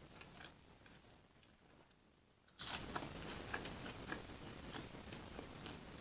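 Close-miked chewing: faint wet mouth clicks, then about halfway through a sharp burst and a steady run of small sticky clicks as the food is chewed.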